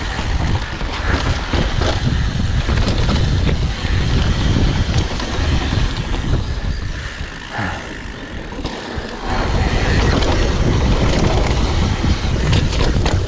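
Wind rushing over the camera microphone with the rumble of mountain bike tyres on a dirt trail during a downhill descent, with rattles and knocks from the bike over rough ground. The noise eases about seven seconds in and comes back louder a couple of seconds later.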